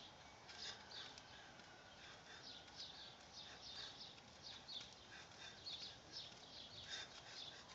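Faint birds chirping: short chirps repeating irregularly, several a second, over quiet outdoor background hiss.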